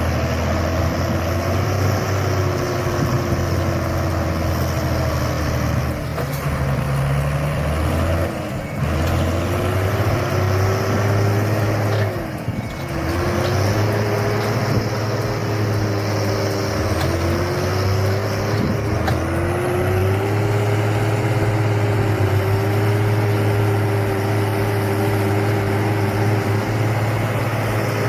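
Zetor 5245's 45 horsepower diesel engine running hard while hauling a heavy log trailer, its revs rising and falling unsteadily as it works against the load, with brief drops about eight and twelve seconds in.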